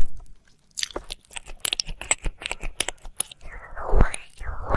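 Close-up ASMR mouth sounds of ear licking: a quick run of wet clicks and smacks, then breathy swells starting about three and a half seconds in.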